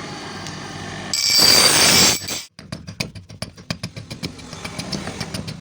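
A steady mechanical hum, then a loud rush of noise for about a second, then a rapid run of hammer blows on hot metal, several strikes a second, while forging an axe.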